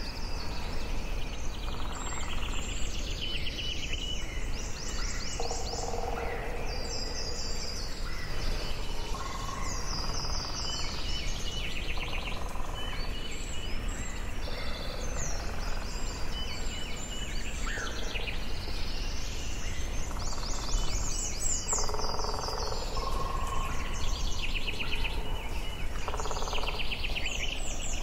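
Forest ambience: several songbirds singing in overlapping repeated phrases and trills, with some lower calls among them, over a steady low background rush.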